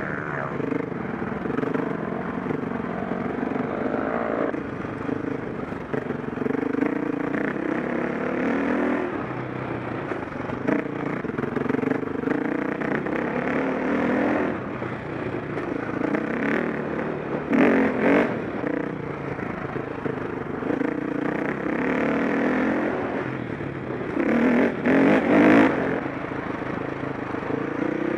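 KTM 525 SX four-stroke single-cylinder dirt bike engine being ridden hard, its pitch rising and falling with the throttle. There are short, loud bursts of noise about two-thirds of the way through and again near the end.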